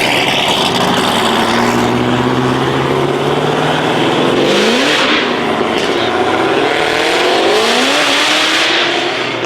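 A performance car's engine running hard and accelerating, its pitch climbing twice and dropping back each time, like revving up through the gears.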